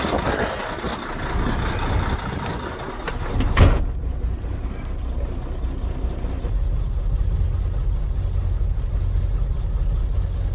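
A 2006 Volvo semi truck's diesel engine and road noise heard from inside the cab while driving. A single sharp knock comes about three and a half seconds in; after it the hiss fades and a steady low rumble is left.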